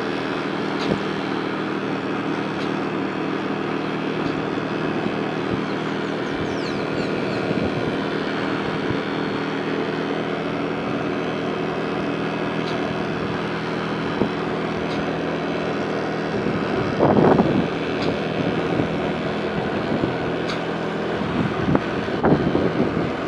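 Vehicle engine running steadily on the move, heard as a low hum, with wind rushing over the microphone and two short louder gusts near the end.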